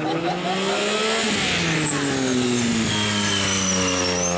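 Triumph stunt motorcycle's engine revving as it rides: the pitch climbs for about a second, sinks through the middle, then climbs again near the end.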